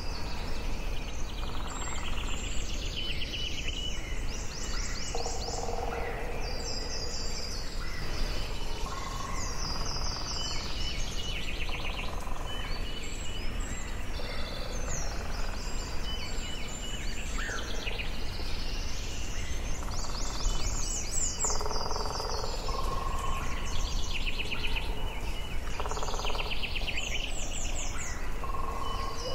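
Forest ambience: several birds calling and trilling on and off throughout, some high and rapid, others lower, over a steady low background rumble.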